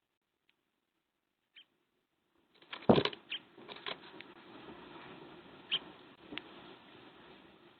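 A small animal moving at a feeder, heard through a camera microphone: a loud knock about three seconds in, then light taps and scratches over a steady hiss.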